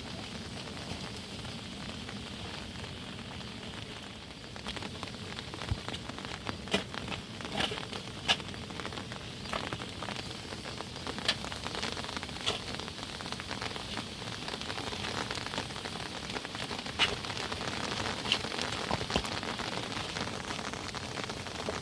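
Steady rain falling on a surface, heavier from about four seconds in, with scattered sharp ticks of drops.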